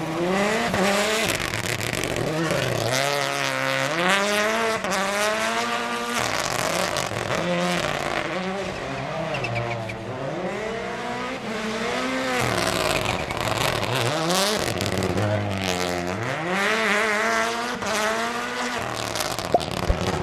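Toyota GR Yaris Rally1 car's 1.6-litre turbocharged four-cylinder engine being driven hard. The revs climb and drop again and again through the gears, with a few sharp pops near the end.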